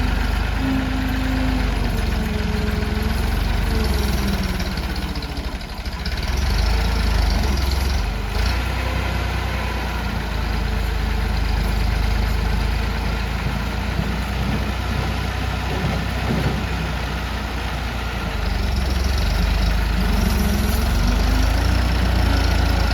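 Tractor engine running continuously, its pitch drifting up and down as the revs change.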